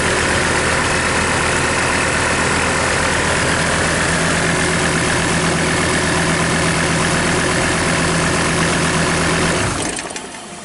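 SsangYong 665925 diesel engine idling steadily while run outside a vehicle, then shut off just before the end.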